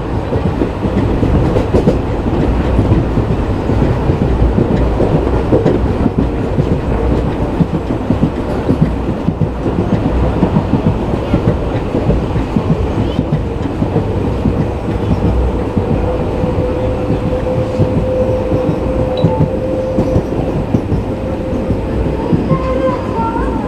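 Coaches of the 11404 Kolhapur–Nagpur Express running along the track, heard from on board: a steady rumble and rattle of wheels on rail. A faint steady whine joins in over the second half.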